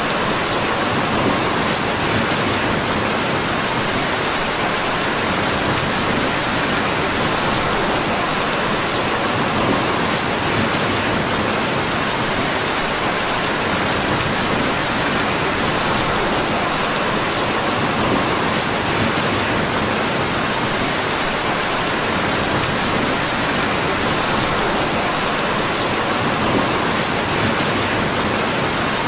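Steady rain falling in an even, unbroken hiss, with a few faint clicks now and then.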